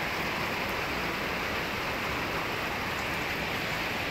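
Steady rain falling, an even hiss with no sudden sounds.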